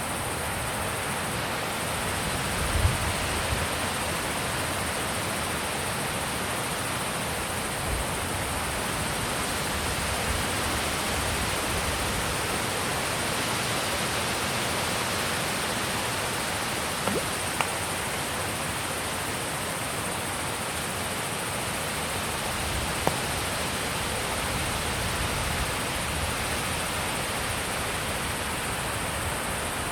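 Wind blowing steadily in the open, with a few gusts thumping low against the microphone.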